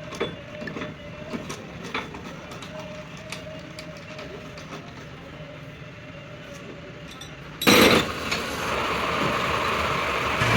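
Workshop lathe running with a faint steady whine and scattered light metal clicks. About three-quarters of the way in there is a sudden loud burst, then a louder steady running noise.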